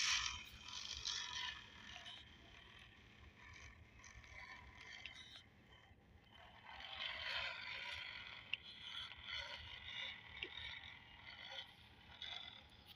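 Faint, irregular scraping and rustling that swells about halfway through, with a few sharp ticks.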